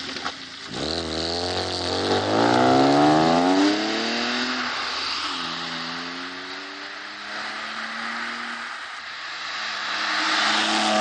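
BMW E36 convertible engine revving hard as the car pulls away, its pitch climbing steeply, dropping at a gear change about four seconds in and climbing again, with another rise near the end.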